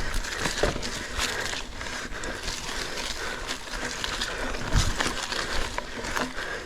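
Loose rock and gravel crunching and scraping underfoot and under mountain bike tyres on a steep rocky trail, a dense irregular crackle with a few sharper knocks.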